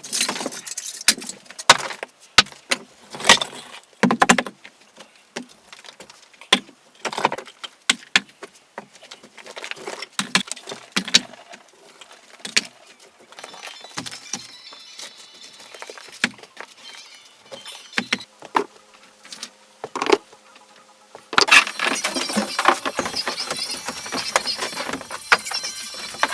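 Irregular sharp knocks and clicks, some louder than others, with light rattling between them; from a little past twenty seconds in, a denser, continuous rattling clatter.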